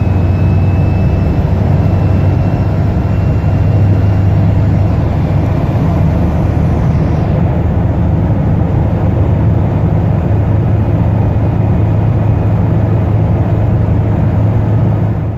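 A car engine running loud and steady, with a deep hum that neither rises nor falls much in pitch.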